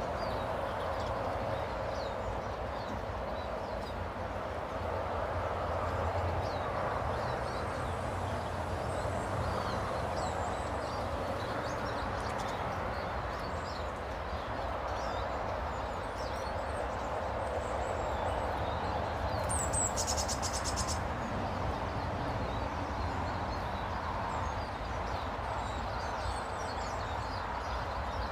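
Small birds chirping and calling at a bird table, with short high chirps scattered over a steady background hiss and rumble. A short, rapid, high trill comes about twenty seconds in.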